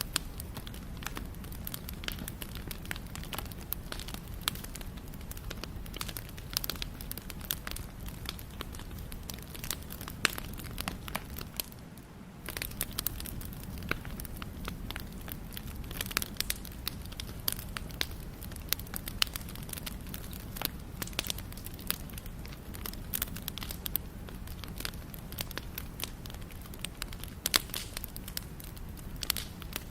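Wood fire burning, crackling steadily, with irregular sharp pops over a low rumble. There is a brief lull about twelve seconds in.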